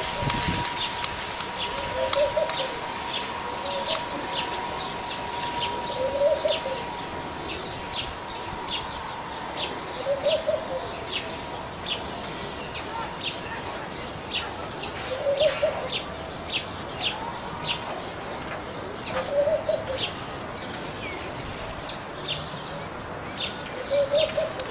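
Birds calling: many short, high chirps several times a second, with a lower call repeating about every four seconds. A faint steady tone runs through the first half.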